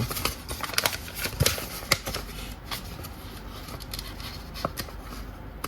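Paper rustling as the pages of a toy's instruction manual are handled and turned, with scattered light clicks.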